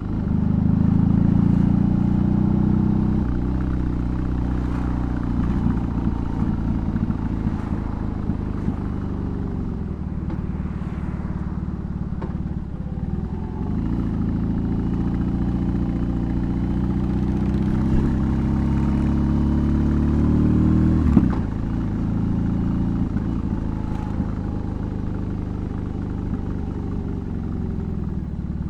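2022 BMW R18's 1802 cc boxer-twin engine and custom exhaust on the move, the revs climbing and dropping through several gear changes. There is a sudden fall in revs about 21 seconds in.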